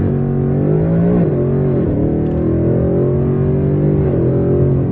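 Car engine under hard acceleration in a short pull. Its pitch climbs and drops back at each upshift, several times.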